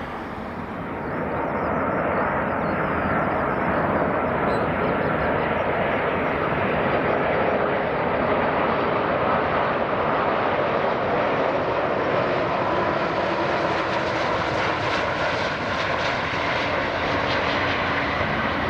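Jet engines of an Airbus A330-300 airliner on arrival, a loud steady rush that swells about a second in and stays up, with faint whining tones in it.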